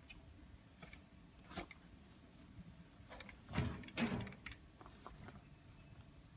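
Scattered light clicks and a knock, then two louder clunks in quick succession about three and a half and four seconds in, like gear or fittings being handled.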